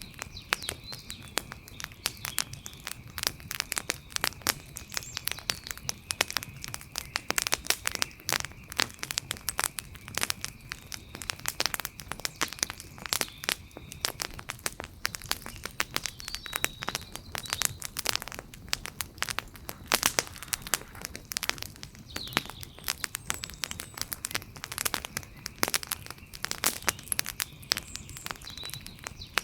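Wood fire crackling, with dense, irregular pops and snaps. A faint steady high-pitched tone runs under it for about the first half and returns near the end, with a few faint chirps.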